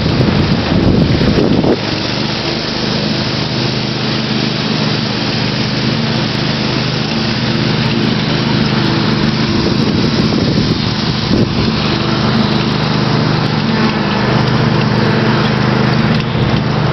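Small engine running steadily at an even speed, with wind and riding noise.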